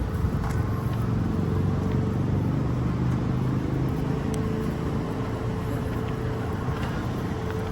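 Road traffic on a city street: a steady low rumble of vehicle engines.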